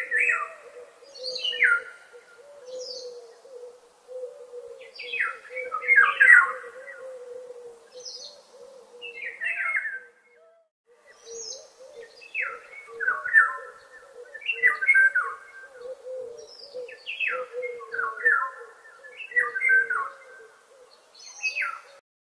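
Birds chirping in short, falling phrases repeated every second or two, over a steady low warbling hum. The sound drops out for a moment about halfway through and cuts off suddenly near the end.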